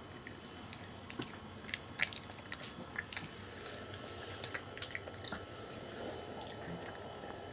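A dog chewing and eating food: a scatter of small, quick crunching clicks, most of them between about one and five and a half seconds in.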